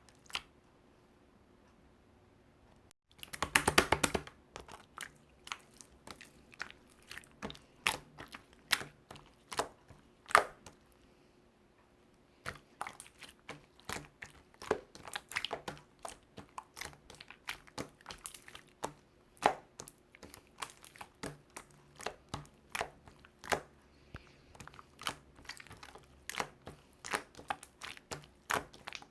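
Irregular crinkling and crackling, with a dense burst about three seconds in, then many scattered sharp crackles.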